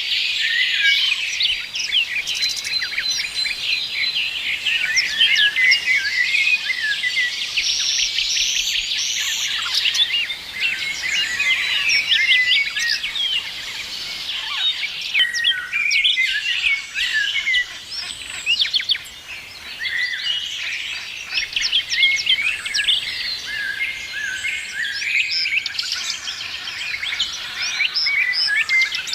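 A chorus of many small birds chirping at once: dense, overlapping short high chirps and calls, thinning briefly about two-thirds of the way through.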